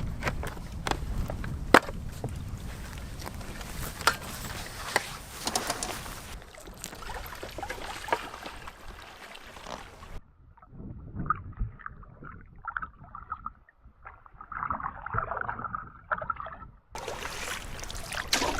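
Canoe being paddled: water sloshing and splashing with frequent sharp knocks. After about ten seconds the sound turns muffled with the highs cut away, and the full sound returns shortly before the end.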